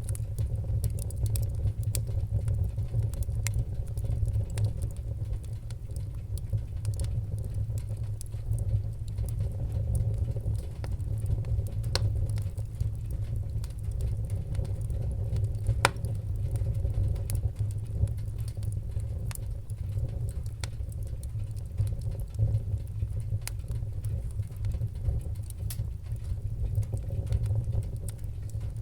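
Wood fire crackling: frequent small snaps and pops over a steady low rumble, with two sharper pops about twelve and sixteen seconds in.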